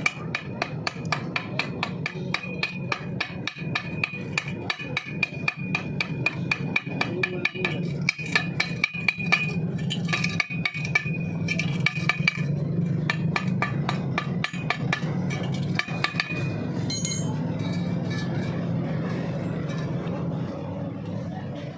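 Steel being struck rapidly with a hammer, about four ringing metallic blows a second over a steady low hum; the blows thin out and stop about three-quarters of the way through.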